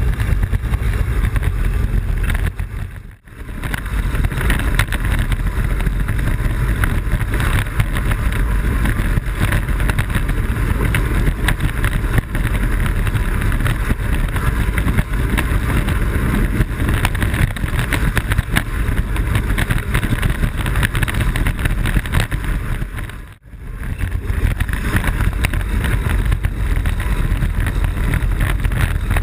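Wind rushing over the microphone of a camera mounted on a Blokart land sailer moving fast, with the low rumble of the kart rolling over the airfield pavement. The noise cuts out sharply twice, about three seconds in and again near the end, then comes straight back.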